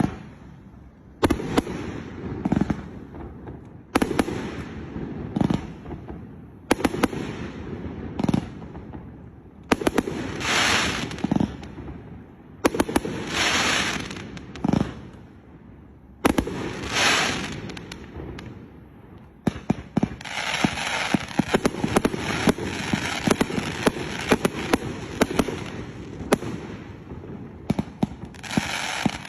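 A 268-shot, 1.2-inch fireworks fan cake firing. Separate launch thumps come a second or two apart, some followed by long hissing swells. About two-thirds of the way in it breaks into a rapid, dense barrage of shots with crackling.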